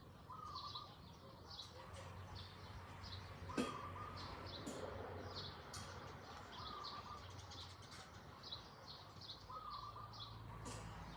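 Birds calling in rural countryside: a steady run of short high chirps, several a second, with a lower wavering call repeating about every three seconds. A sharp click comes about three and a half seconds in, over a steady low hum.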